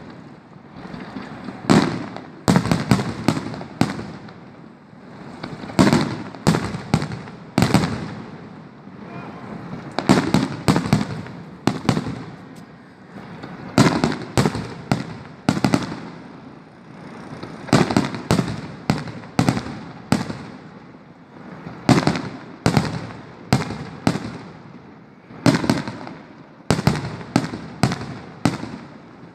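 Fireworks going off in a long irregular run of sharp bangs, often several in quick succession, each trailing off in a rumbling echo.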